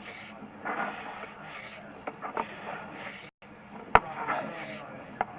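Faint talking in the background with a few sharp knocks or clicks, the loudest about four seconds in and another near the end.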